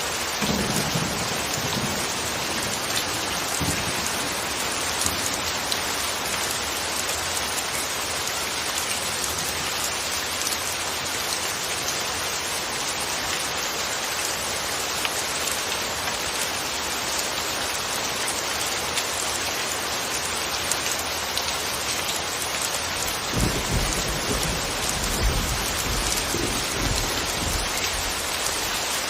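Steady rain falling on a surface, with a low rumble of thunder near the start and again in the last few seconds.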